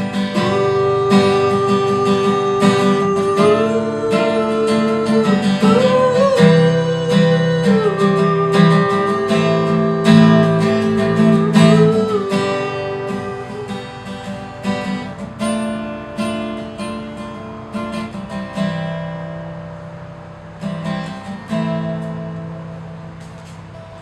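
Strummed acoustic guitar with a held melody line over it that slides between notes, the music fading out over the second half as the song ends.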